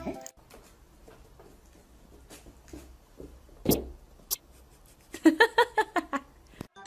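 Small animal making a rapid run of short, high squeaks about five seconds in, after two sharp knocks.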